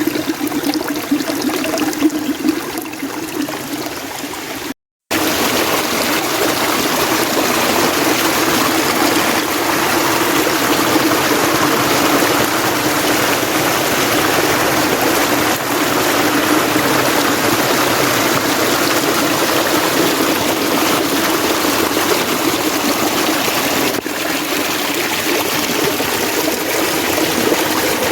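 Mountain stream water flowing steadily over rocks. The sound cuts out briefly about five seconds in and comes back a little louder.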